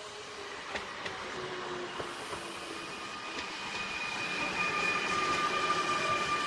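A train approaching on the rails and growing steadily louder, with a few sharp clicks from the wheels in the first two seconds. About three seconds in, two steady high-pitched tones set in, a squeal or whine from the train.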